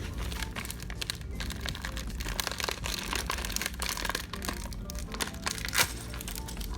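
Packaging of a Lego booster pack being handled as its contents are worked out: irregular crinkling, rustling and small clicks, with one sharper snap near the end. Background music plays underneath.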